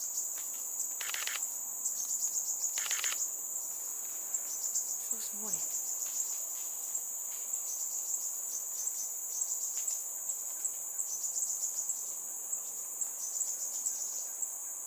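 Steady high-pitched insect drone throughout, with short high chirping calls repeated at intervals from a fledgling crimson sunbird.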